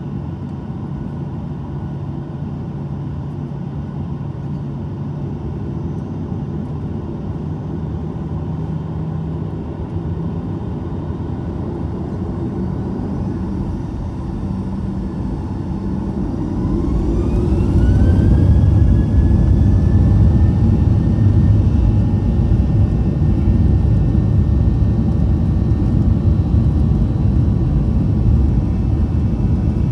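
Boeing 737-900's engines heard from inside the cabin: a steady hum, then a little past halfway the CFM56-7B turbofans spool up. A rising whine levels off into a steady high tone, and the low rumble grows louder and stays up.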